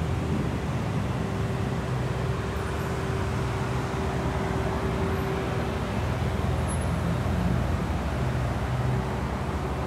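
Cars' engines idling, a steady low rumble with a faint constant hum over traffic noise.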